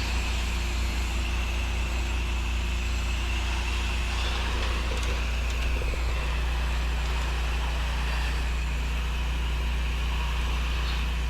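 Gas-engine pressure washer running at a constant speed, its engine note steady under a hiss of spray.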